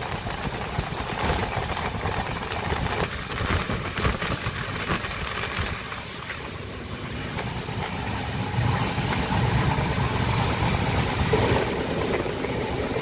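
Express passenger train running along the track, a steady rumble of wheels and coach with rattling clicks.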